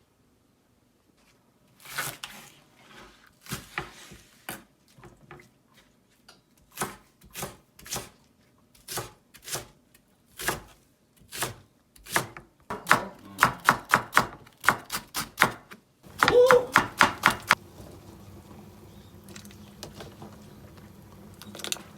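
Knife chopping on a cutting board: single sharp strokes at first, then a fast run of about five a second, with a faint steady hiss after the chopping stops.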